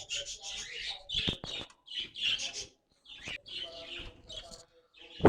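Small pet parrots chirping: a run of short, high calls, about ten across a few seconds, with gaps between them.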